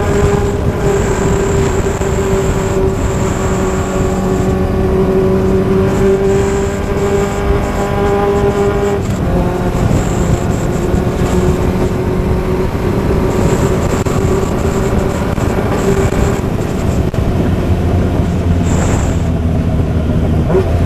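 Straight-piped Suzuki GSX750F inline-four motorcycle engine running at a steady cruise while riding, its pitch dropping about nine seconds in and shifting again near the end.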